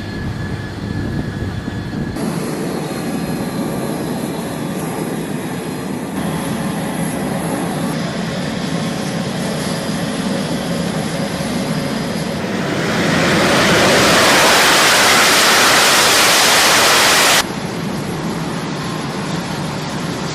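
Jet aircraft engine noise across several cut-together clips. A much louder rush of jet noise comes in about twelve seconds in and stops abruptly about five seconds later.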